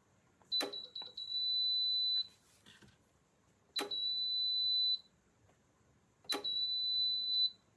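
Three electronic beeps, each a sharp click followed by a steady high beep held for about one to two seconds.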